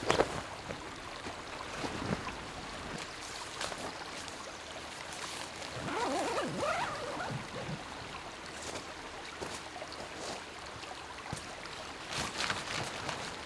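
Lake water lapping at the shore as a steady wash, with a few light clicks near the start and about twelve seconds in, and a brief wavering sound about six seconds in.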